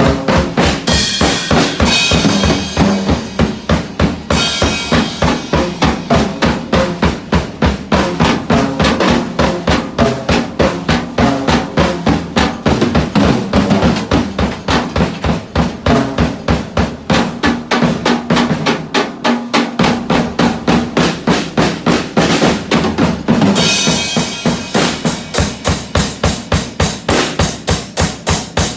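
A drum kit playing a fast, steady beat of about four hits a second, with bass and snare drum. Cymbals wash over the beat for the first few seconds and again over the last five seconds.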